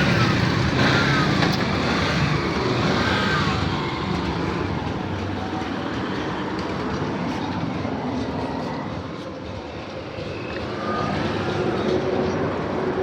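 Motor vehicle noise: a steady rumble of running engines and traffic, with a few short high whistling glides.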